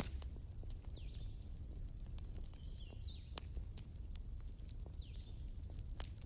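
Wood fire crackling, with irregular sharp pops and snaps over a steady low rumble. A few short, high chirps sound about a second in, around three seconds in, and near five seconds.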